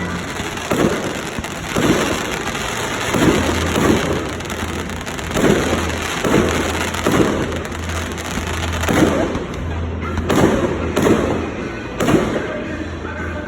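Fireworks display: a run of aerial shell bursts, about a dozen booms at irregular intervals of roughly half a second to a second, with crackle between them. A steady low hum lies underneath.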